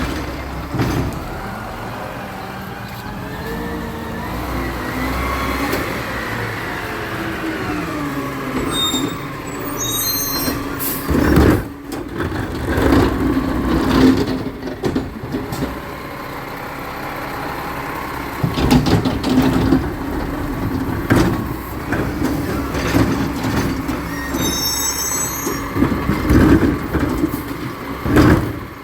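Recycling truck at work: its engine and hydraulics rise and fall in pitch as it runs, with repeated clanks and knocks and short high-pitched squeaks twice.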